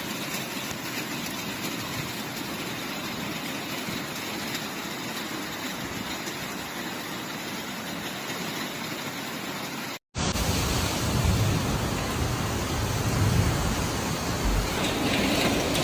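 Heavy rainstorm: a steady rush of rain and wind. About ten seconds in it cuts briefly to silence, then comes back louder, with gusty wind rumbling on the microphone.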